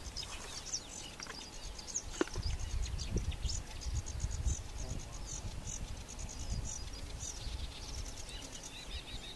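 Small birds chirping over and over, short high calls throughout, with a low rumble that swells through the middle.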